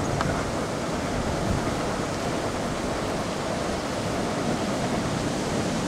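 A 15-inch gauge train rolling past close by, heard as a steady, even noise of wheels on rail with no distinct beats.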